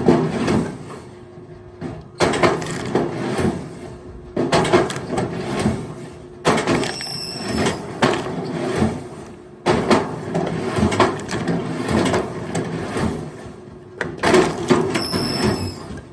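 Firewood clattering and knocking as logs are handled and thrown, in bursts every two to three seconds, with a steady low hum underneath.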